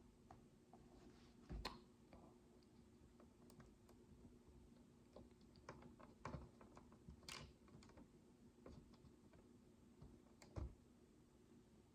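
Micro building bricks being handled and pressed together: faint, scattered small plastic clicks and taps, with a few sharper clicks spread through.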